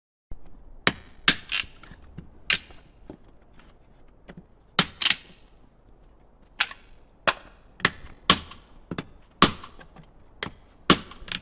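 A stove-maker's axe, with a hammer and pick head, chopping and splitting small firewood: a dozen or more sharp, irregular blows about a second apart.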